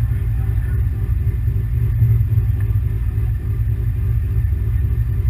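1997 Honda Accord demolition derby car's engine idling, heard from inside the stripped cabin: a steady low rumble with an even pulse.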